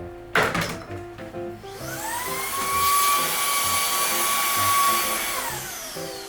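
Dreame Z10 Station vacuum motor spinning up with a rising whine, running at a steady high pitch for about three seconds, then winding down near the end. A short sharp sweep comes about half a second in, before the motor starts.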